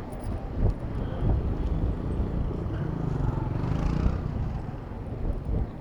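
City road traffic heard from a moving bicycle, with wind rumble on the microphone; a motor vehicle passes close by, loudest about four seconds in.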